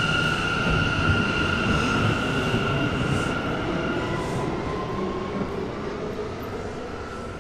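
Subway train running on the rails, with wheel rumble and a high steady whine that fades out about four seconds in; the overall sound slowly gets quieter.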